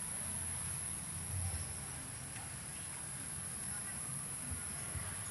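Insects droning in a steady, unbroken high pitch, over a low rumble on the microphone.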